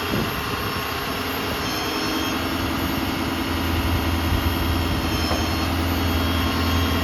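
Ford F-750's 6.7-liter Power Stroke diesel running at idle with the PTO engaged to drive the crane's hydraulic pump: a steady low hum, joined about a second and a half in by a steady higher tone as the level rises slightly.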